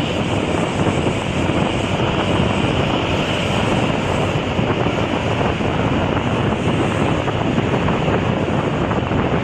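Steady wind buffeting the microphone, mixed with road and engine noise from traffic on a highway.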